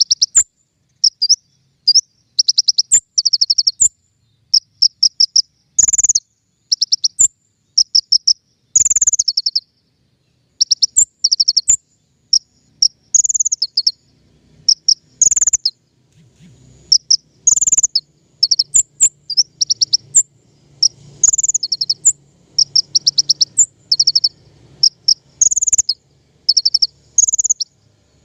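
Konin songbird singing: rapid runs of high, sharp repeated notes in quick bursts of several notes each, broken by short gaps and now and then an upslurred call. It is a lure (pancingan) call used to draw in and train birds of the same kind. A faint low hum sits under the song from about halfway through.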